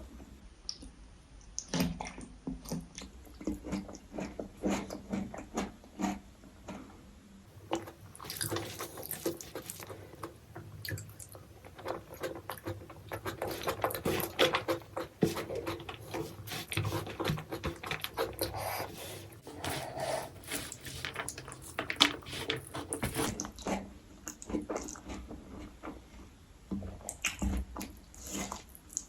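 Close-miked chewing and mouth sounds of someone eating, a dense run of short clicks, busiest through the middle.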